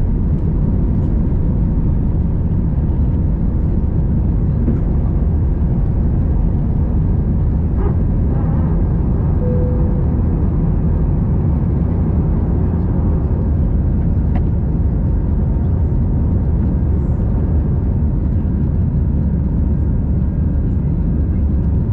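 Steady cabin noise of an Airbus A319-111 in flight, its CFM56 engines and the airflow heard from a window seat inside the cabin; a low, even rumble with no change in level.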